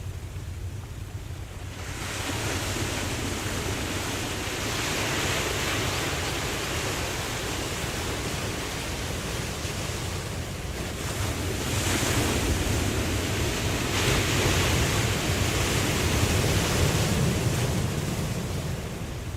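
Ocean waves washing in, in slow surges: one swell builds about two seconds in and a bigger one comes in around the middle, easing off near the end. A steady low wind rumble runs underneath.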